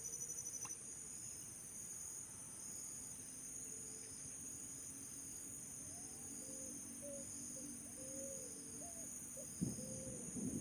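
Crickets and other insects chirring steadily, with a high pulsing trill, faint overall. A few short calls come in the second half, and a low rumble begins just before the end: the start of thunder.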